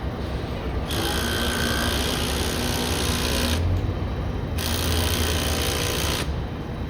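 A power tool running in two bursts of a few seconds each, with a short pause between them, tightening the clamp that holds the guy wire around the pole. A steady low rumble runs underneath.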